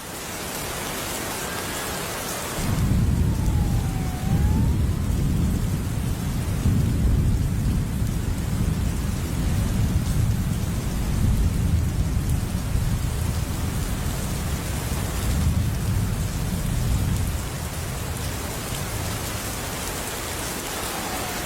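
Steady rain hissing, with a long low rumble of thunder that starts about three seconds in and eases off near the end.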